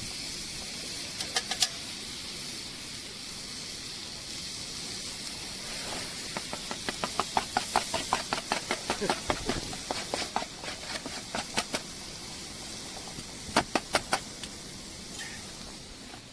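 Thick-cut meat sizzling in an iron campfire frying pan: a steady hiss. A quick run of sharp clicks and taps comes in the middle, with a few more about a second in and near the end.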